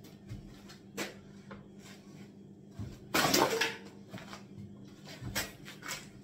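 Wooden kitchen units being worked loose: a sharp knock about a second in, a louder half-second scrape and crunch about three seconds in, then a few lighter knocks near the end.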